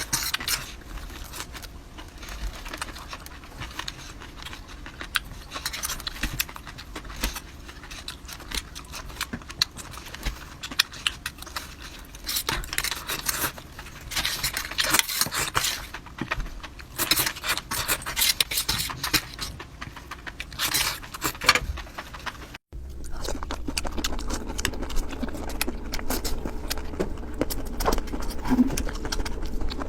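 Close-miked eating: wet chewing and crunching of seafood and instant noodles, with many sharp clicks and crackles. The sound cuts off for a moment about two-thirds of the way through, then carries on.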